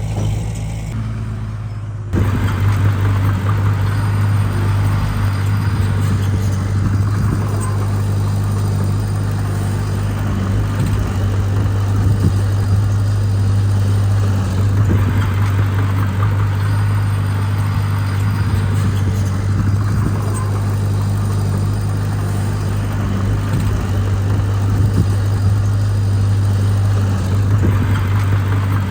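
Diesel engine of heavy earthmoving equipment running steadily at an even pitch, with a low, constant hum. It gets suddenly louder about two seconds in.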